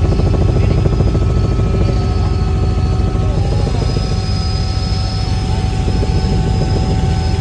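Military helicopter running close by: rapid rotor-blade chop over a deep rumble, with a steady high turbine whine. The blade chop fades about halfway through while the whine carries on.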